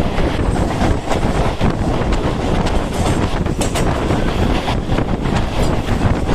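Mumbai suburban local train running: a steady loud rumble of wheels on track with scattered sharp clicks, and wind buffeting the microphone.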